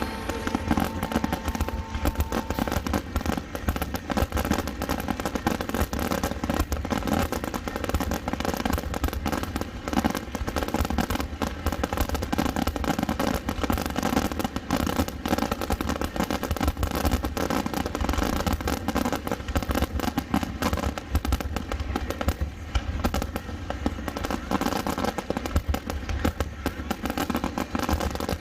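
Fireworks going off in a dense, unbroken barrage: many overlapping bangs and crackles in quick succession with no let-up.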